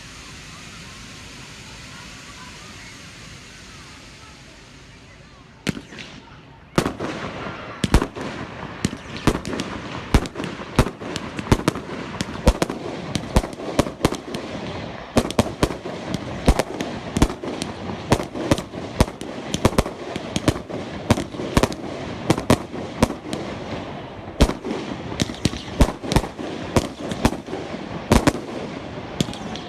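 Fireworks going off: a single sharp bang about six seconds in, then from about seven seconds a continuous barrage of rapid gunshot-like bangs over steady crackling.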